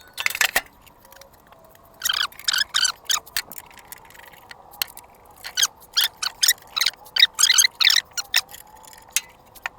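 Socket ratchet clicking in short quick runs while backing out bolts, each run a fast string of ticks, with pauses between runs.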